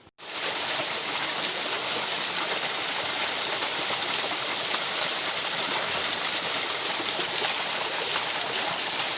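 Small waterfall along a mountain stream: water pouring and splashing in a loud, steady rush that starts abruptly.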